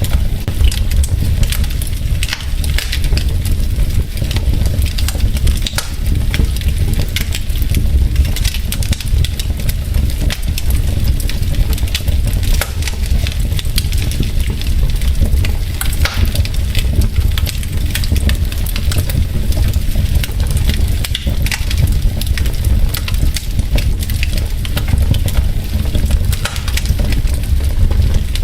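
Wood fire burning in a fireplace: logs crackling with a dense, irregular stream of small pops and snaps over a steady low rumble of the flames.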